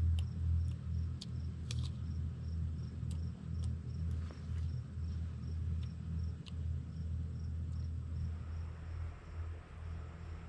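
Faint insect chirping, evenly repeated about two to three times a second, over a louder low rumble, with a few scattered sharp clicks.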